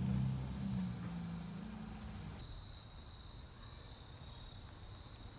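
The Saab 9-3's 2.8 V6 with its muffler deleted runs low and fades away over the first two seconds. After it, insects trill steadily in a high, even tone.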